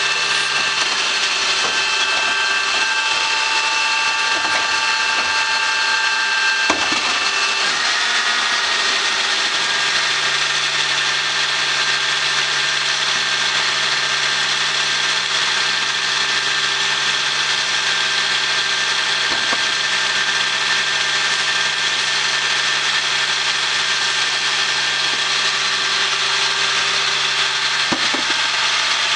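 GMC Topkick side-load garbage truck running, with a steady high mechanical whine over the engine hum, typical of the hydraulics working the comb lifts. The whine changes pitch with a click about seven seconds in, then runs steadily again.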